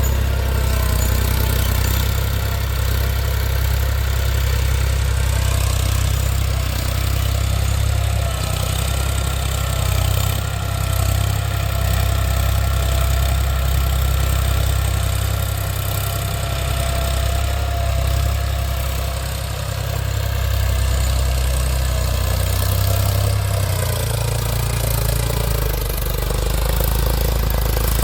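Eicher tractor's diesel engine running steadily with a deep continuous rumble and a faint steady whine.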